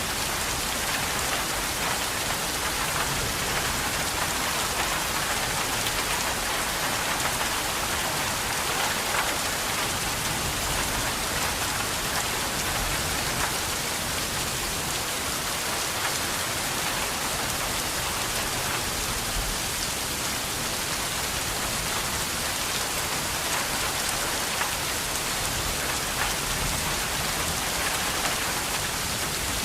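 Steady heavy rain falling on a surface, a dense even hiss of drops with fine patter throughout.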